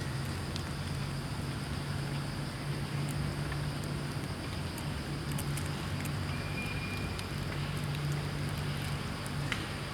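A steady low hum over a constant background hiss, with a few faint clicks and a brief high chirp-like tone about two-thirds of the way through.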